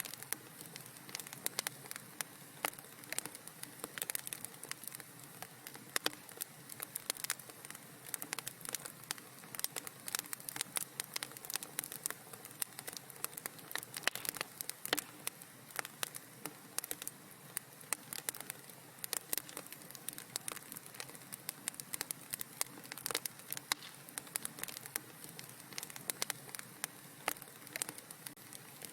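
Wood fire burning in a fireplace, with dense irregular crackles and pops over a soft steady hiss.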